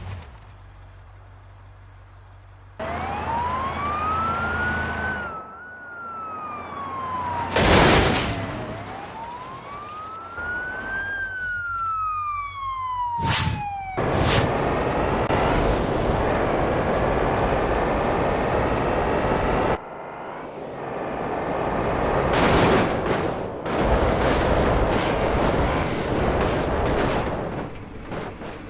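A wailing siren, its pitch rising and falling slowly twice, with sharp bangs between. After it comes a loud, steady, hissing stretch that cuts off abruptly, then a run of sharp bangs.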